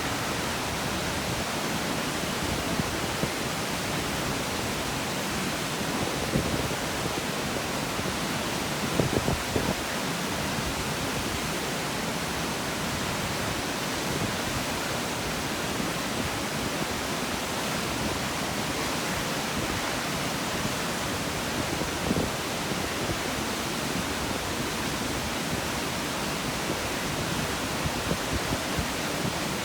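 Steady roar of water from Kegon Falls, a large waterfall plunging into its basin, as an even rushing noise with occasional low thuds.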